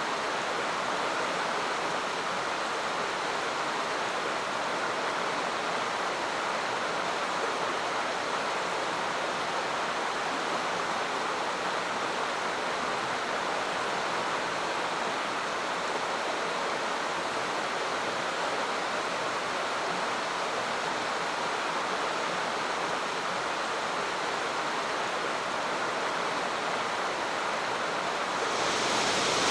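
Rushing water of a mountain waterfall or river, a steady even hiss with no other sounds over it. Near the end it becomes louder and brighter.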